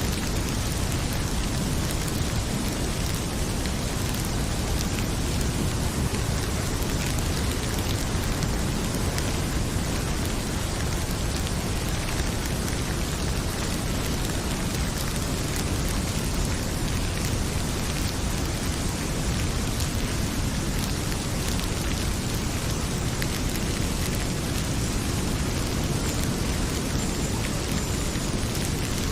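Heavy rain falling in a steady, even hiss, with a wood fire in a fireplace crackling now and then through it.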